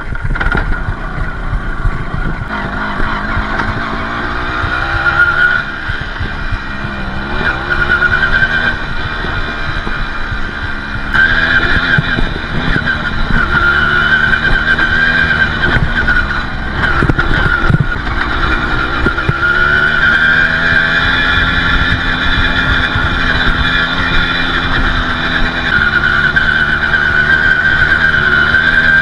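Balkan 50's 50 cc two-stroke engine running while the bike is ridden along a dirt track, its pitch rising and falling with the throttle. It gets louder about eleven seconds in and stays up.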